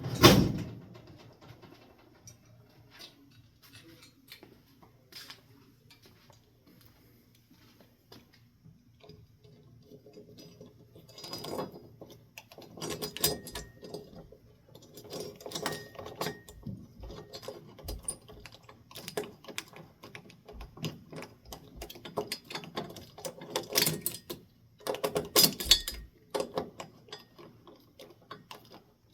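A sharp knock, then clusters of irregular metallic clicking and rattling from fan-mounting hardware being handled, most of it in the second half.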